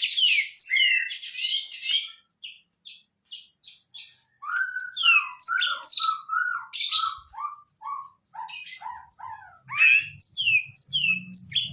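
Cucak ijo (green leafbird) singing. It opens with a rapid, dense warble, then gives a run of short sharp notes, then settles into a repeated phrase of a low note with a falling whistle, about two a second. A low hum comes in near the end.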